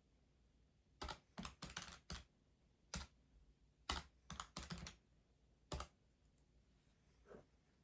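Keys being pressed in short, irregular bursts of sharp clicks, about a dozen taps, stopping about six seconds in.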